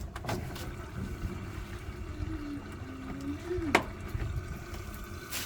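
Washing machine in its wash cycle with water running in, a steady low churning noise. A faint wavering tone comes in shortly before halfway and ends in a sharp click a little past halfway.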